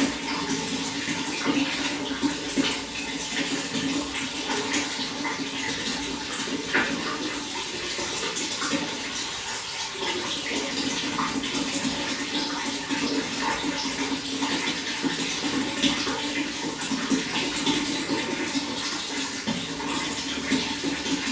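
Running water flowing steadily: a continuous rushing noise with many small splashes.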